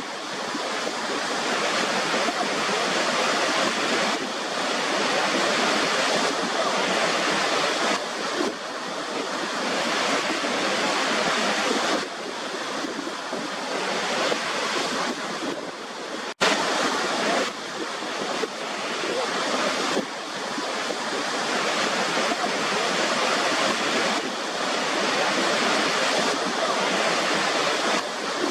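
Waterfall rushing steadily, a dense hiss of falling water without deep rumble. It breaks off for an instant just past the middle and then carries on.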